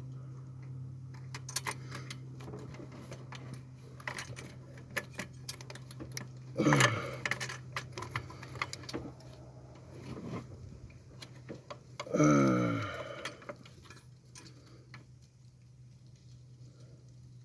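Metal tools and parts clicking and clinking as a clip on a turbo wastegate is worked loose, over a steady hum that fades out about 14 seconds in. Twice, about six and twelve seconds in, a louder short sound falls in pitch.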